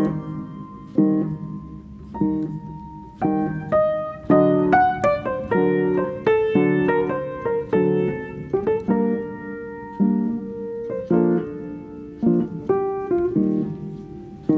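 Background piano music: single struck notes and chords, each ringing out and fading.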